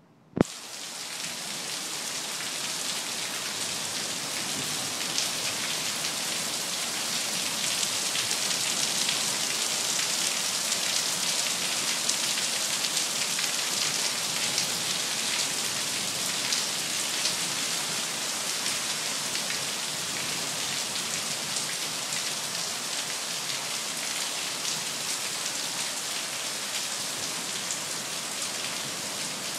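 Rain falling steadily in a dense hiss. It cuts in suddenly with a click about half a second in.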